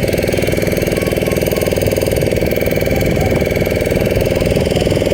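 Motorboat engine running steadily, with a fast, even beat.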